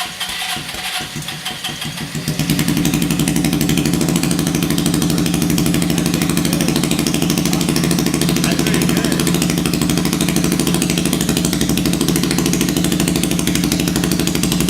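Hammerhead 250 SS go-kart's 250 cc engine running through a homemade straight-pipe exhaust with no muffler. It runs unevenly for about two seconds, then settles louder and steady.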